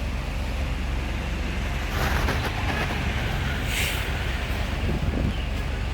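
Restored mini ceiling fan running at high speed: a steady rushing noise with a strong low rumble.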